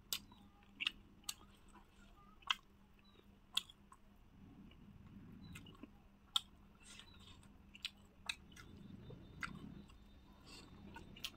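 A person chewing food, with quiet wet chewing and a sharp mouth click or smack about every second, at uneven intervals.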